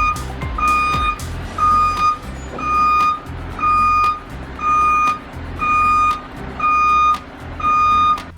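Dump truck's backup alarm beeping in reverse: a single-pitch beep about half a second long, repeating about once a second, over the low running of the diesel engine.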